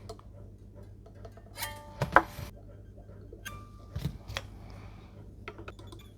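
Strings of an Epiphone SG electric guitar plucked briefly and stopped twice, amid sharp clicks and taps of handling and tools on the guitar during a setup adjustment. A steady low hum lies underneath.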